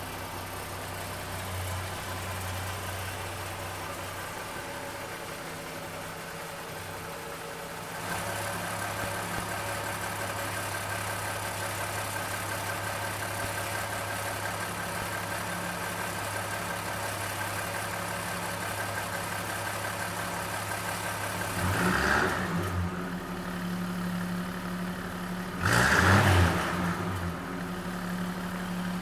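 1951 Studebaker Champion's original six-cylinder engine idling smoothly and steadily. It is briefly revved twice near the end, a few seconds apart.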